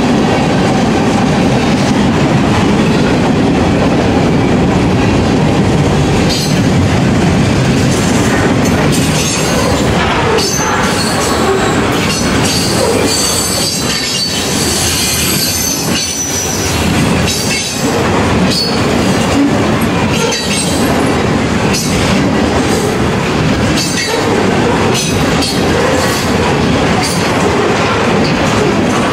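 Loaded freight cars of a manifest train rolling past at track side: a steady loud rumble of steel wheels on rail with clatter and knocks from the wheels and couplers, and a thin high wheel squeal around the middle.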